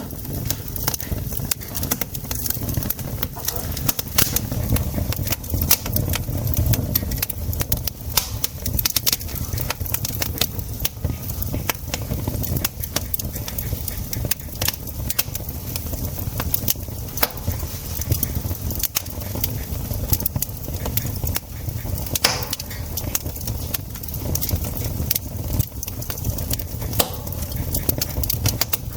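Campfire crackling: burning wood gives frequent, irregular sharp pops and snaps over a steady low rumble.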